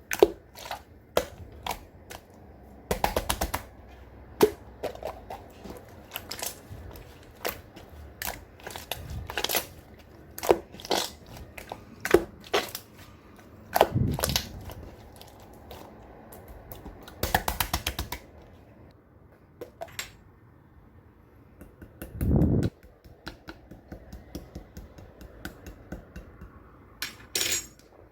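Clear slime being pressed, stretched and poked by hand. It gives irregular sticky clicks and air-bubble pops, with a couple of short runs of rapid crackling clicks.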